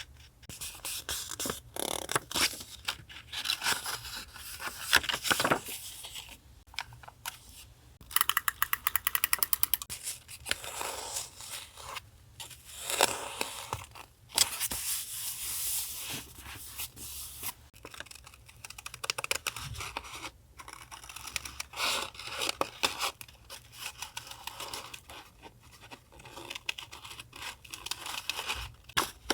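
Paper being handled for a collage journal: irregular rustling, scraping and tearing of paper, with a rapid run of even clicks for about two seconds, some eight seconds in.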